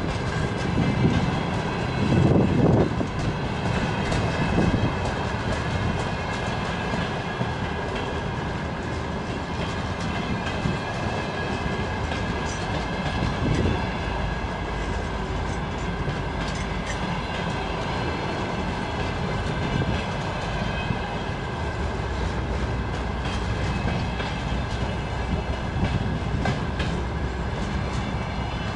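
Freight wagons rolling past: a steady rumble of steel wheels on rail, with clacking over the rail joints that is heaviest in the first few seconds.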